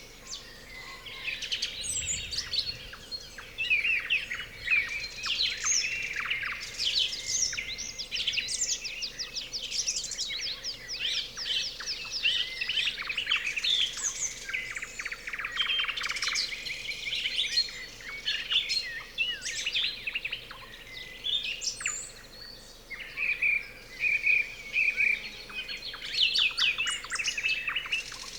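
Nightingales singing in a dense dawn-chorus-like tangle of song: rapid runs of repeated notes and loud whistled phrases overlapping without a break.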